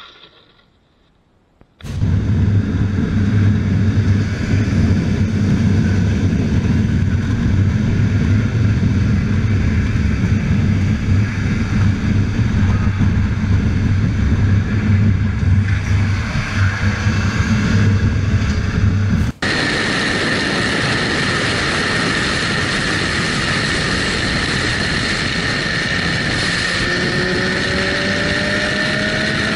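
Motorcycle riding on-board: engine running with wind and road noise, steady, starting after about two seconds of near silence. About two-thirds of the way through it cuts abruptly to another ride, steadier and with a constant high whine.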